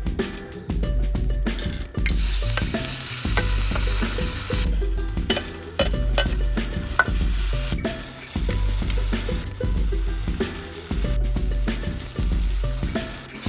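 Minced garlic and chilli sizzling in hot oil in a wok, starting about two seconds in. A few sharp clinks of a metal spoon or plate against the wok come in the middle, over background music with a steady low beat.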